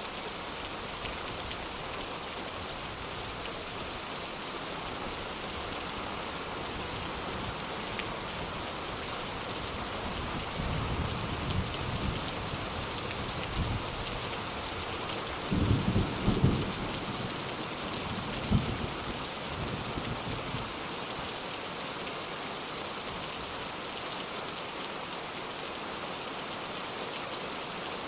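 Steady rain falling, with a roll of thunder that builds about ten seconds in, peaks near the middle with a few louder cracks, and rumbles away.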